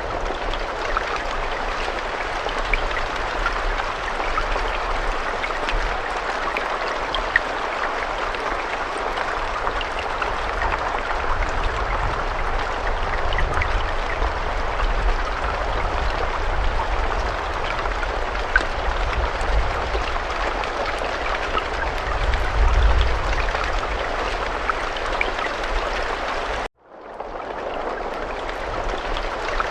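Steady rain falling, an even hiss with scattered sharp drop ticks, and a low rumble that swells briefly about two-thirds through. Near the end it cuts out to silence for a moment and fades back in.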